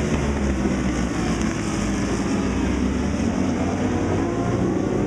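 Several racing superbikes running hard at high revs, their engines blending into one steady, dense mechanical sound.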